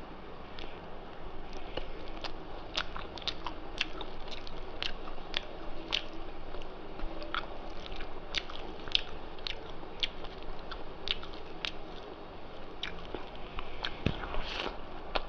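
Close-up chewing and biting, with many sharp wet mouth clicks, as a person eats rice with small-fish chochori.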